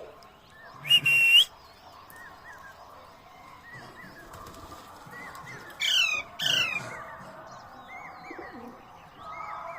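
Young Alexandrine parakeet calling: a harsh squawk about a second in, then two loud falling screeches close together about six seconds in, with faint short chirps between.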